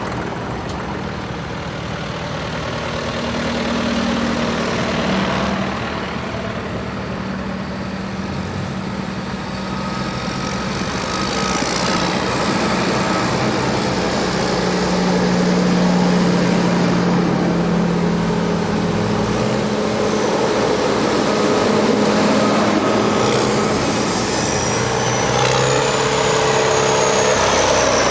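Tractor engines running as tractors go past one after another, the engine notes rising and falling as each passes.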